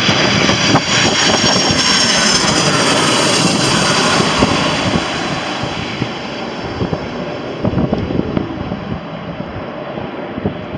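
Jet airliner engines running at high power: a loud, dense rush with a faint high whine that falls slightly, easing off over the second half.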